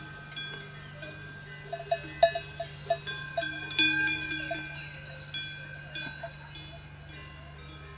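Bells clanking and ringing, many struck tones at different pitches overlapping, busiest about two to four seconds in, over a steady low hum.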